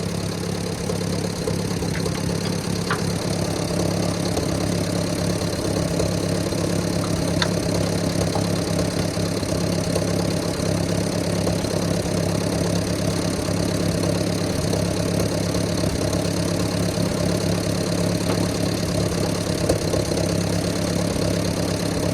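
Ford N-series half-track tractor's four-cylinder flathead engine idling steadily, warm, with a few faint clicks over it in the first several seconds.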